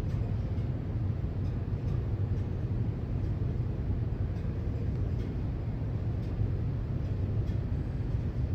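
Large diesel engine of a Hitachi EH4000AC5 rigid mining dump truck running, a steady low rumble.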